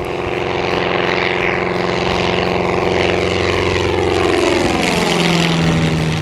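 Piper Warrior's four-cylinder piston engine and propeller at takeoff power as the single-engine plane climbs out and passes by; the engine note drops in pitch from about four seconds in as it goes past.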